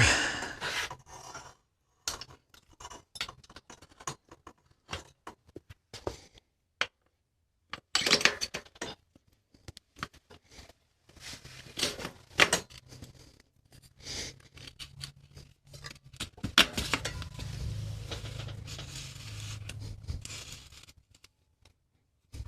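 Metal bicycle parts and tools being handled: scattered clicks, light clanks and scrapes, with a low steady hum for a few seconds near the end.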